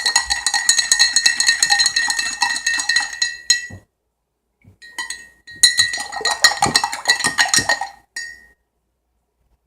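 A metal spoon stirring water fast in a clear jug, clinking rapidly against the side with a ringing tone: two runs of stirring with a short pause between them, the second ending a little past the middle.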